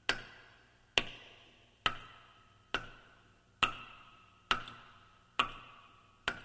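Steady ticking: a sharp tick a little under once a second, eight in all, each ringing briefly.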